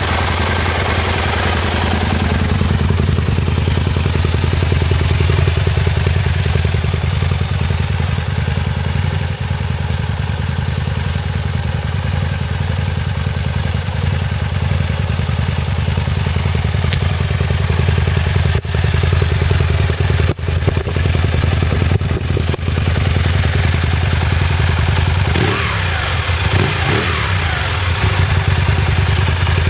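Aprilia Tuono 1000 motorcycle engine running at a steady idle.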